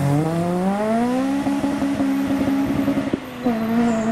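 Honda Civic hatchback's four-cylinder engine pulling away under acceleration: the revs climb over the first second and a half, then hold steady. About three seconds in the note breaks off briefly for an upshift and carries on at slightly lower revs.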